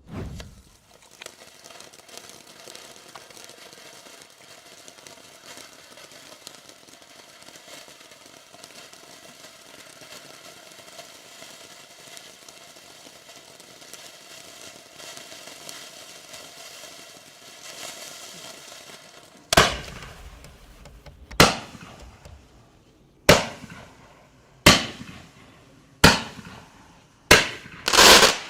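Consumer firework fountain spraying with a steady hiss for about twenty seconds. Then seven sharp, loud bangs come one to two seconds apart as its 0.8-inch salute shots fire.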